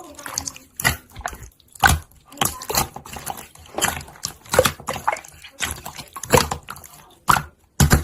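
Irregular wet clicks and squelches, about one or two sharp clicks a second.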